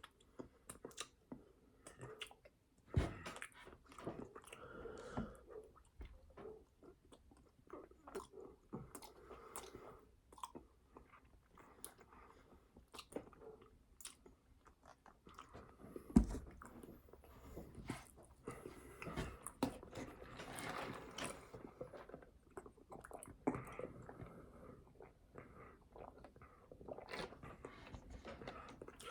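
Close-miked chewing and biting of food, with scattered crisp crunches and mouth clicks.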